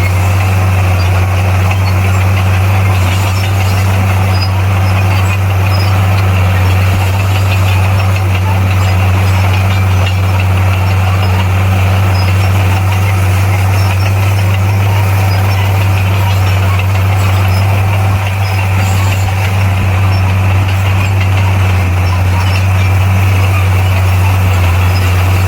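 Komatsu D58P bulldozer's diesel engine running at a steady speed, a loud, even drone with no change in pitch.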